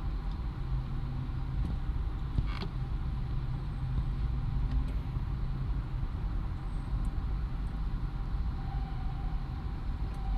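Steady low rumble of car road and engine noise, with a brief click about two and a half seconds in.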